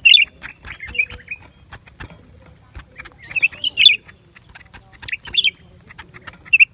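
Blue-winged leafbird calling: short, sharp chirpy phrases of a few notes, repeated every second or two, with faint clicks between them.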